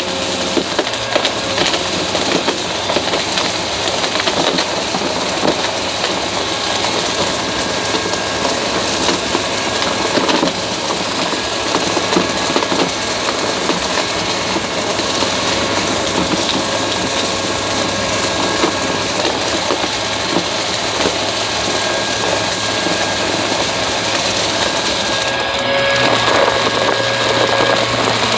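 Upright vacuum cleaner running with a steady motor whine while crackling and crunching as it sucks up crunchy debris. A little before the end the motor tone shifts and the low hum gets a bit louder.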